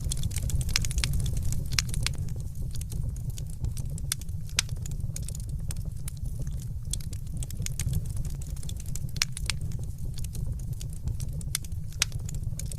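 Wood fire crackling: a steady low rumble of flames with frequent sharp, irregular pops and snaps.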